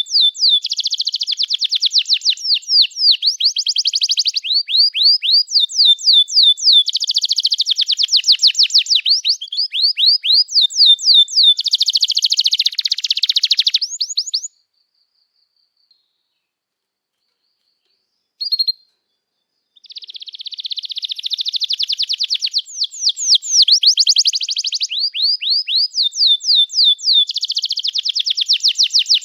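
Domestic canary in full song: long runs of fast, repeated sweeping chirps and rapid trills. It breaks off for about five seconds midway, with one short note in the gap, then starts again.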